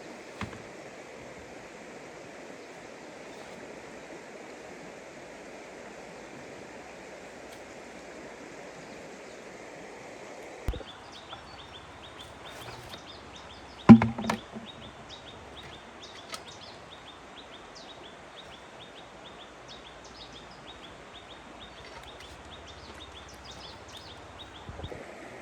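Outdoor ambience: a steady rushing noise, which gives way suddenly about ten seconds in to rapid high chirping that goes on, with a loud knock about fourteen seconds in.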